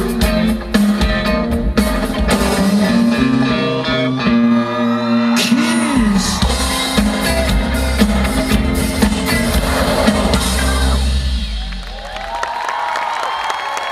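Live band with electric guitar and drums playing the instrumental close of a song, ending about eleven seconds in. Crowd applause and cheering follow.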